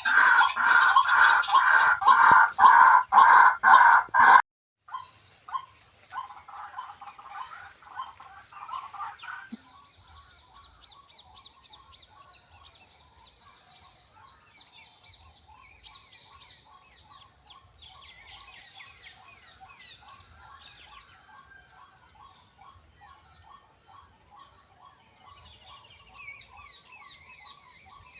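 Loud bird calls repeated about three times a second, cutting off abruptly about four seconds in. Quieter, mixed bird calls and chirps follow.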